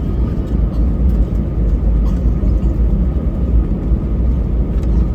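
Airbus A320 cabin noise while taxiing: the jet engines run at a steady low setting under a steady low rumble, with a faint steady whine above it.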